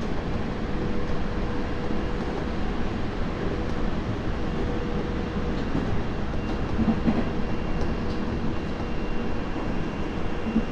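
Interior running sound of a Tobu 30000 series electric train car, motor car with Hitachi IGBT-VVVF drive: steady rumble of wheels on rail with a constant mid-pitched hum. A thin high tone joins about two-thirds of the way through.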